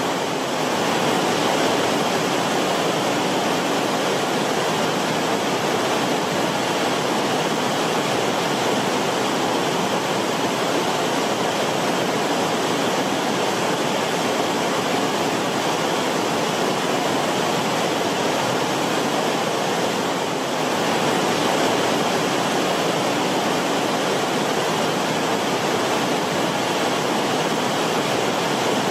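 Creek water flowing and bubbling over rocks in a shallow creek bed: a steady rippling rush.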